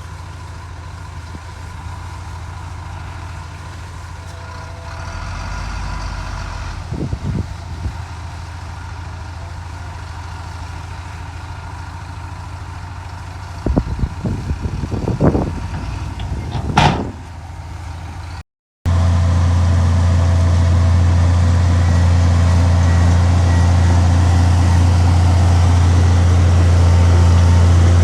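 Heavy diesel engine of earthmoving machinery running steadily, with a few sharp knocks and clanks. After a short break about two-thirds of the way through, a louder engine runs steadily.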